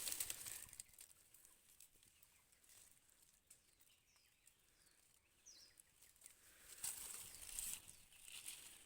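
Near-silent outdoor quiet with a few faint, short, high bird chirps about halfway through, and light rustling at the start and again near the end.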